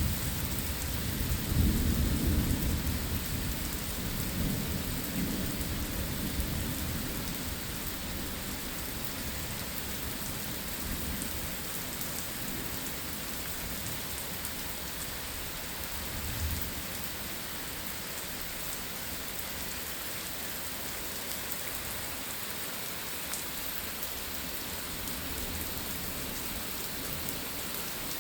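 Steady rain falling in a thunderstorm, with a low rumble of thunder that fades away over the first several seconds and a faint low rumble again about halfway through.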